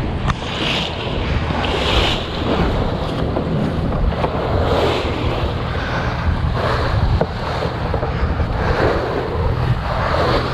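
Wind buffeting the microphone and water rushing and splashing along a sailboat's hull as it punches into waves, with the boat's motor running low and steady underneath at about 1000 RPM.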